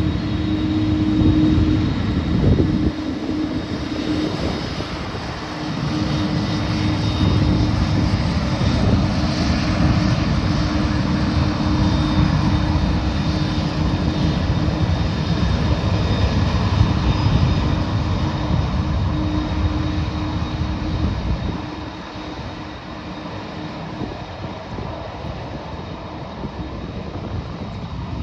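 Airbus A330-300's twin GE CF6 turbofans at takeoff power: a loud, steady jet roar with a held hum running through it. The roar and hum drop in level about three-quarters of the way through.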